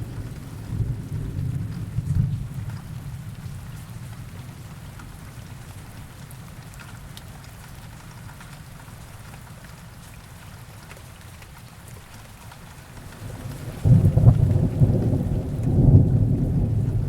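Steady heavy rain with thunder. A low rumble dies away over the first few seconds, then a louder roll of thunder breaks in suddenly about three-quarters of the way through and keeps rumbling.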